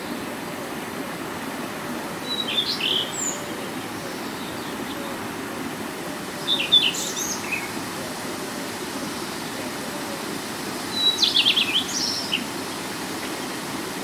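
A songbird sings three short phrases of quick high chirps, a few seconds apart, over the steady rush of a rocky stream.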